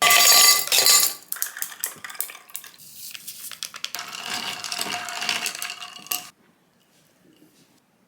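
Dishes and metal cutlery clattering and clinking, with a few ringing metallic tones, cut off abruptly about six seconds in.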